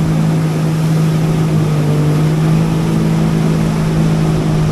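Jet ski engine running under way at a steady throttle, its note holding one even pitch.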